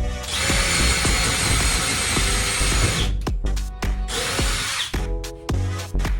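Power drill running into wood in two bursts, a long one of about three seconds and then a short one, with a steady motor whine, over background music.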